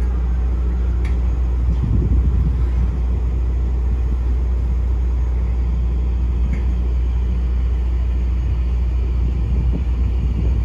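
Car ferry New Awashima's engines running with a steady low rumble as it comes into port, swelling briefly about two seconds in.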